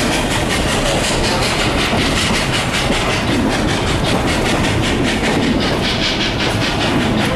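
Narrow-gauge train running along the track, heard from aboard a passenger car. A steady, loud running noise of wheels on rail with a rapid, even clatter throughout.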